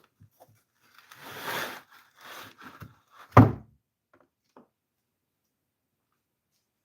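Hands handling pots and potting mix: rustling and scraping, then a single loud thump a little over three seconds in, followed by two faint clicks.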